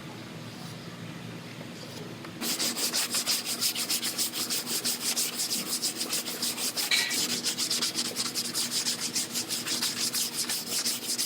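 Hand sanding on a car door panel: a sanding block rubbed back and forth in quick, even strokes, several a second, starting about two and a half seconds in.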